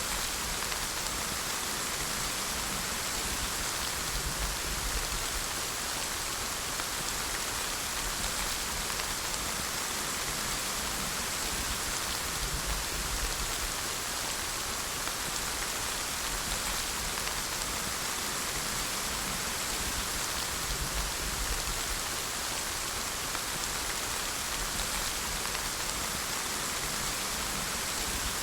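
Steady rain falling on a surface, an even hiss of many drops with a faint low rumble underneath.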